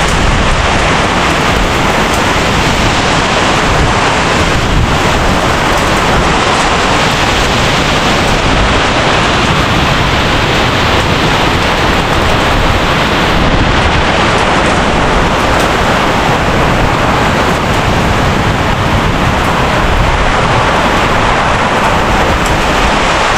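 Heavy rain falling, a loud steady hiss without a break.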